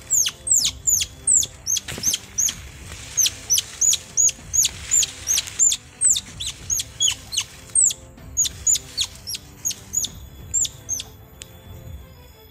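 A long, rapid series of sharp, high-pitched animal chirps, each one dropping quickly in pitch, repeating about two to three times a second.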